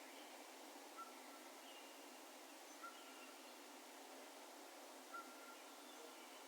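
Faint, distant bird calls echoing over an open field: one bird gives a short clear note three times, about two seconds apart, each with a brief trailing echo, among fainter higher chirps. Under them runs a steady soft hiss of open-air ambience.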